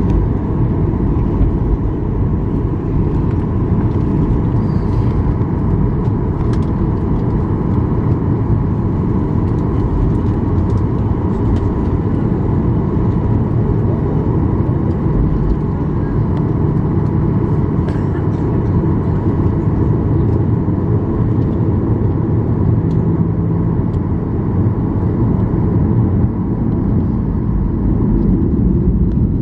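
Cabin noise of a Boeing 737-800 on the ground, with its CFM56 turbofan engines at low power: a steady low rumble under a steady hum, with a few faint clicks.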